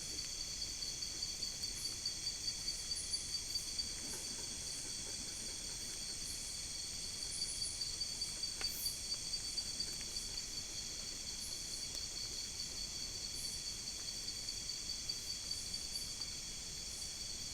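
Chorus of crickets and other insects, a steady high-pitched trilling in several pitches at once, one of them pulsing rapidly. Twice a brief higher chirp rises above it.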